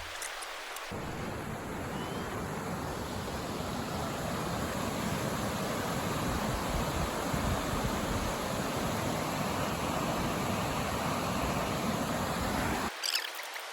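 Steady rushing noise, even and without pitch, that starts about a second in and cuts off abruptly near the end.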